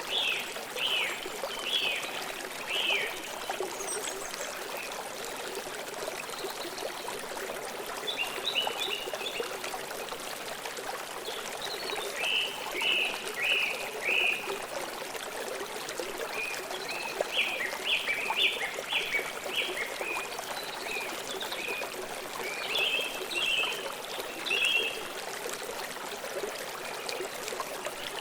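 A forest stream flowing steadily, with birds chirping over it in short runs of several quick notes every few seconds.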